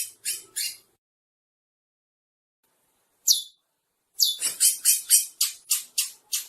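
Chestnut-bellied seed finch (curió) singing. A few short notes come first, then a pause of about two seconds and a single high note falling in pitch, then a quick run of about ten notes near the end.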